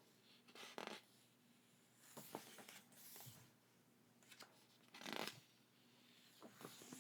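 Faint handling of paper items and packaging: a few short rustles and slides, the loudest about five seconds in.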